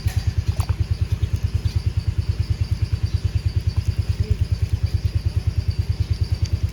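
A small engine running steadily at idle, with an even low pulsing about thirteen beats a second.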